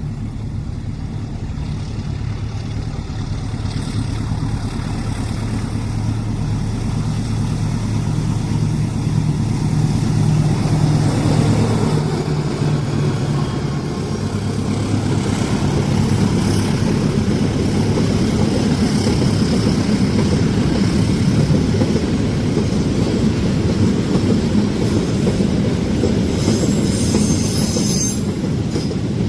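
A diesel train passing on a curved track. For the first twelve seconds the locomotive's engine runs with a steady low drone as it approaches, then the cars rumble past. High-pitched wheel squeal from the curve comes near the end.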